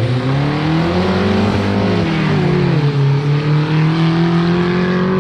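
Cars accelerating hard in a street race: engine pitch climbs, drops at a gear change about two and a half seconds in, then climbs steadily again.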